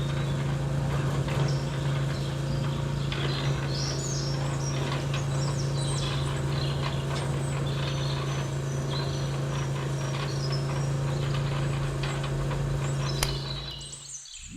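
A small motor running with a steady low hum while birds chirp over it; the hum cuts off suddenly near the end.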